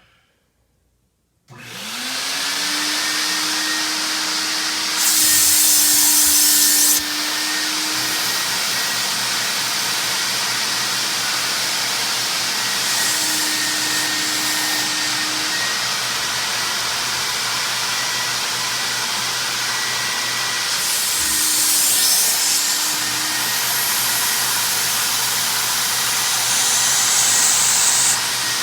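Mytee Lite 8070 hot-water carpet extractor starting about a second and a half in, its vacuum motor spinning up with a rising whine and then running steadily with a loud hiss as it extracts from the carpet. It has several louder spells of high hiss, and the motor's pitch dips slightly at times.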